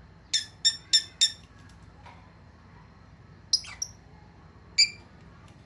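Lovebird giving short, high-pitched chirps: four quick ones in a row, then a pair about three and a half seconds in and a single one near the end.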